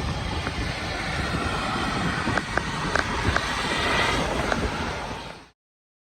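Storm wind and rain against the truck camper: a steady rushing noise with a low rumble and scattered light ticks, cutting off suddenly near the end.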